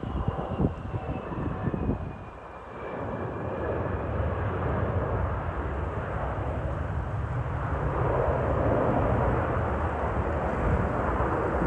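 Jet airliner engine noise, a steady rumble that slowly grows louder, with wind buffeting the microphone in the first couple of seconds.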